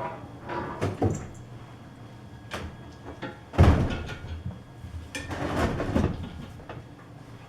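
Knocks and clunks from heavy drill press parts being handled, the heaviest thump about three and a half seconds in, then a scraping slide lasting about a second.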